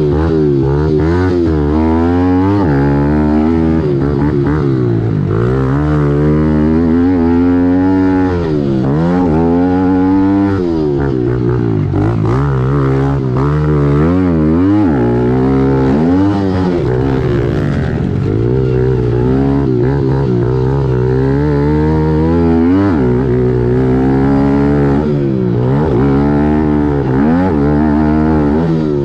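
A 2017 Kawasaki KLX110L's small single-cylinder four-stroke engine racing, its revs rising and falling every few seconds as the throttle is worked, with a steadier engine drone underneath.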